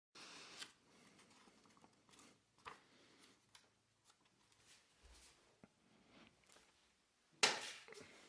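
Paper being handled: a run of soft rustles and small clicks, with one louder crinkle a little past seven seconds in.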